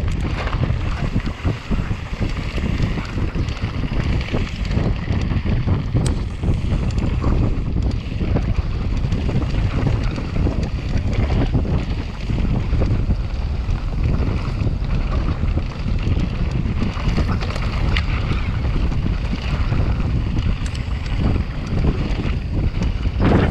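Mountain bike descending fast on rough ground: heavy wind buffeting the microphone over the tyre noise, with a steady run of rattles and knocks from the bike.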